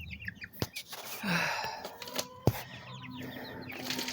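Young chickens peeping in runs of short, falling high chirps, with some lower clucking; two sharp clicks stand out, about half a second and two and a half seconds in.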